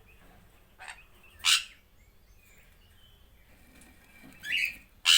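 A parrot squawking: four short calls, the loudest about a second and a half in and right at the end.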